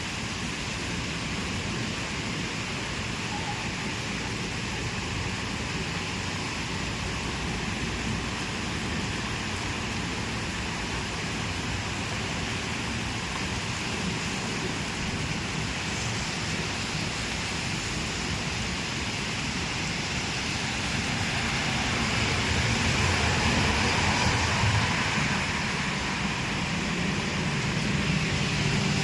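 Steady rain falling, an even hiss. Partway through, a low rumble swells and eases off.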